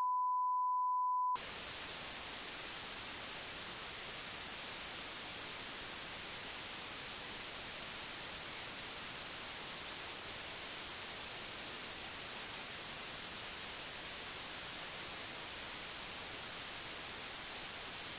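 A steady pure test tone near 1 kHz for about the first second and a half, which cuts off abruptly into a steady hiss of white-noise static.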